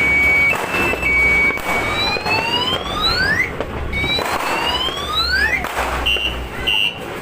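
Electronic car alarm siren cycling through its tones: a steady high tone, then two slow rising whoops, then short repeated beeps near the end, over a low steady hum.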